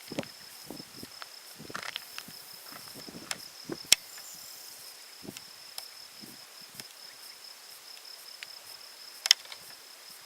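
An insect trilling continuously at one steady high pitch, with scattered low knocks and two sharp clicks, about four and nine seconds in.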